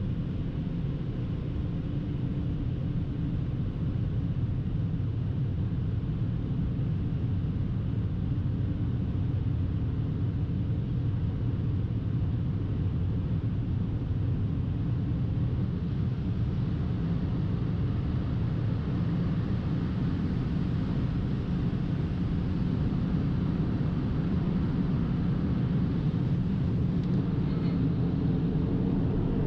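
Steady low rumble of a car running, even throughout with no sharp events.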